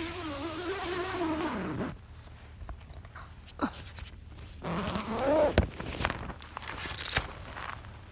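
Tent door zip being pulled open in two long draws, each giving a buzzing tone that wavers and rises as the slider speeds up, with a few sharp clicks between them.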